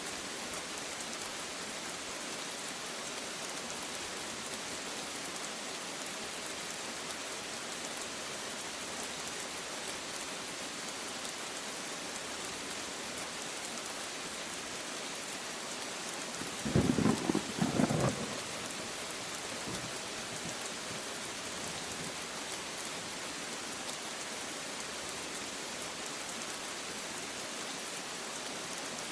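Steady rain falling, with one short clap of thunder about halfway through: two loud peaks in quick succession, lasting under two seconds.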